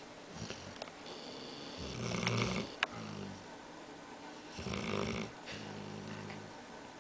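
A dog snoring, half awake: two breaths, each a rough snore followed by a longer, steadier low tone. There is a short click between the first snore and its tone.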